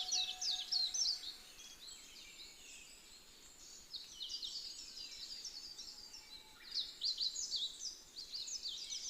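Small songbirds chirping and twittering in quick, high, falling notes. The notes are dense at first, thin out after about two seconds, then pick up again.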